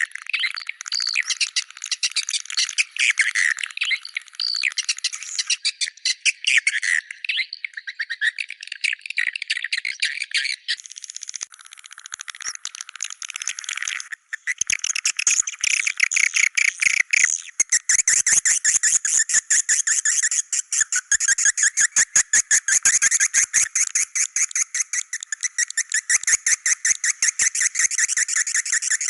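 Swiftlets calling: a dense chatter of rapid chirps and clicks that thins briefly near the middle, then settles into a steady, fast train of clicking twitters.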